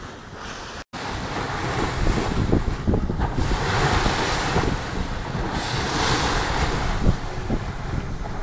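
Wind buffeting the phone's microphone over the wash of sea waves slapping against a boat's hull in open swell.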